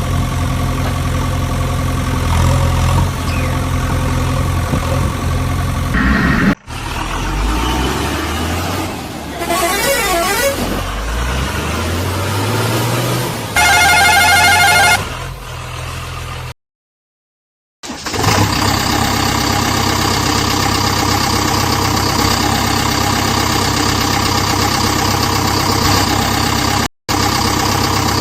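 Vehicle engine sounds, with revving glides midway and a horn sounding for about a second and a half, broken by a short dead gap and abrupt cuts where clips are spliced together.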